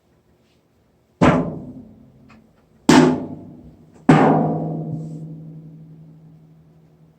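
Three loud, sudden bangs about a second and a half apart, each dying away in a long ring; the third rings longest, with a steady low hum under it.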